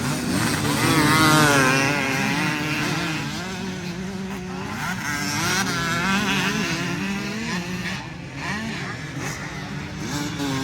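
Several off-road motorcycle engines revving up and down as riders work through a section of the course, louder about a second in.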